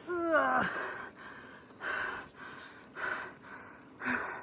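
A woman's heavy breathing while pedalling hard up a steep grade: a voiced gasp that falls in pitch at the start, then hard, noisy breaths about once a second. She is out of breath from the climb.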